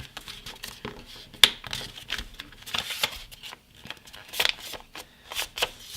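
A many-layered sheet of printer paper being handled, folded and creased flat: irregular crisp rustles and crackles, the sharpest about a second and a half in.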